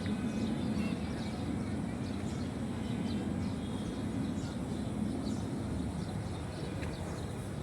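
Steady low rumble of outdoor background noise, such as distant traffic, with faint, short, high bird chirps scattered through it.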